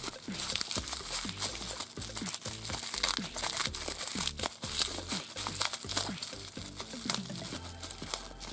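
Clear plastic wrap crinkling irregularly as hands unwrap a small plastic toy figure from it, with quiet background music underneath.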